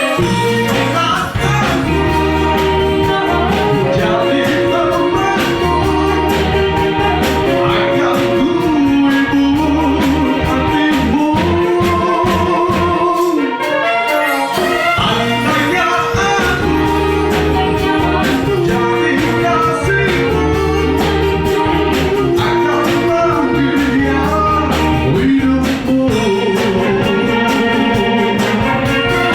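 A band rehearsing a song: a voice sings the melody over the band's bass and accompaniment, which play without a break.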